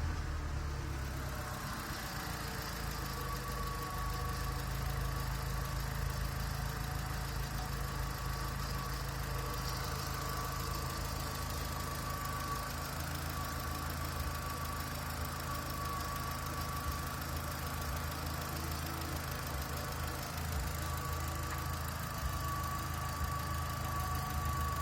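Volkswagen engine idling steadily on test, with a faint thin whine that comes and goes.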